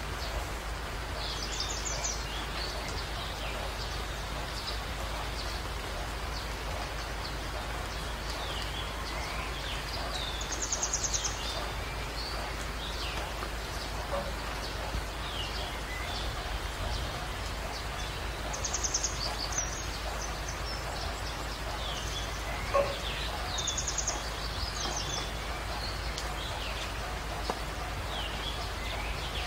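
Steady ambient noise with a low hum, overlaid by scattered small bird chirps and four brief, high, rapid trills. One sharp knock about two-thirds of the way through.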